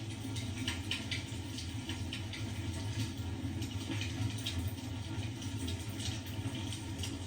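Fireplace crackling, with small pops and snaps at irregular intervals over a steady low hum.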